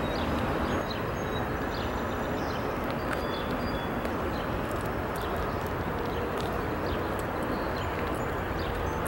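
Freight train led by two EMD GP38-2 diesel locomotives approaching, a steady low rumble, with birds chirping over it.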